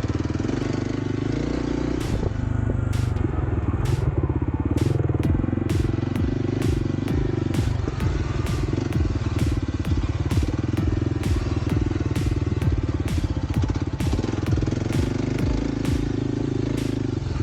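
Kawasaki KLX300's single-cylinder four-stroke engine running under a rider on a dirt trail. The engine note changes with the throttle, with frequent sharp knocks and clicks throughout.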